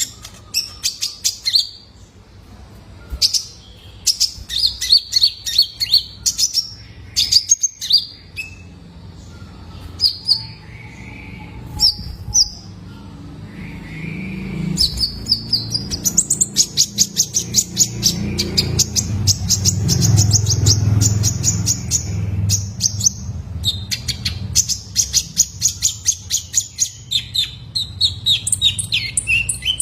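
Young male kolibri ninja (konin) sunbird singing: rapid series of high, sharp chirps and trills in bursts, with short pauses between them. The longest, densest bursts come around the middle and later part. A low background rumble rises and fades through the middle.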